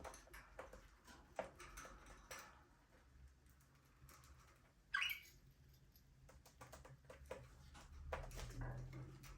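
Budgerigars moving about in a small aviary: faint scattered scratching and tapping from claws and beaks, with one short, sharp chirp about five seconds in. A low steady hum runs underneath.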